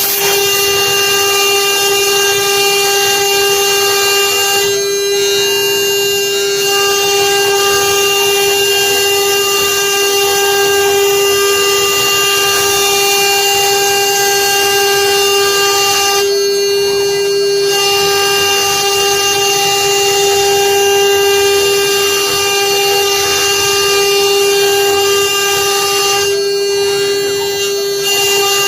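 CNC router spindle running with a steady whine while the bit engraves wood, the cutting hiss over it easing off briefly a few times.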